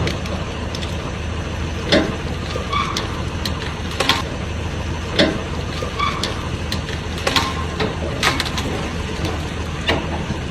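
A vehicle engine running steadily, heard as a low hum, with irregular sharp clicks and knocks over it.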